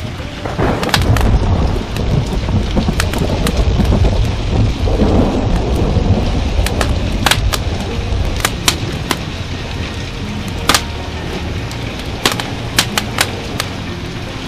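A long rolling thunder rumble over steady rain, building about half a second in and dying away over several seconds. Sharp crackles and pops of a wood fire in a fireplace come through it throughout.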